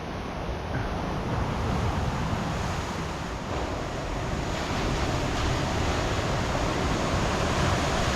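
Sea surf washing steadily, a continuous rushing noise that grows slightly louder over the stretch.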